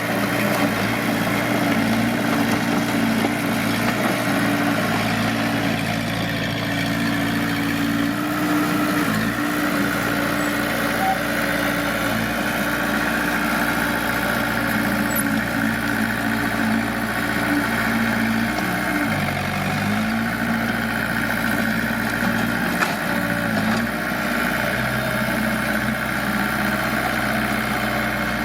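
Heavy earthmoving machinery's diesel engine running steadily, its pitch dipping briefly about two-thirds of the way through and then rising back.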